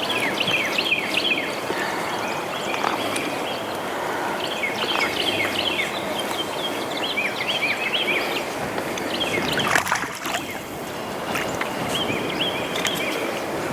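Steady rush of wind and water noise, with birds chirping in short, bending calls throughout and a few sharp clicks about ten seconds in.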